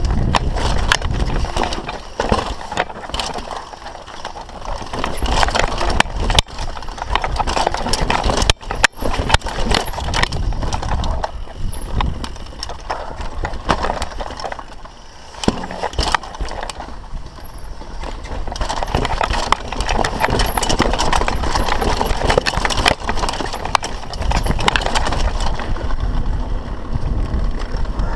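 Mountain bike riding down a rough bike-park trail: a steady clatter of chain slap and frame rattle over tyre noise, with many sharp knocks from bumps.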